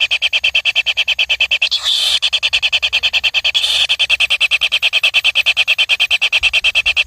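Baby birds' begging calls: a fast, continuous stream of high chirps, about ten a second, while the chicks are being fed.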